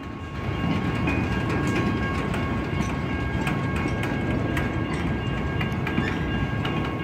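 CSX freight cars rolling past close by: a steady rumble with wheels clicking over the rails, and a faint steady high whine above it. The rumble swells about half a second in, then holds.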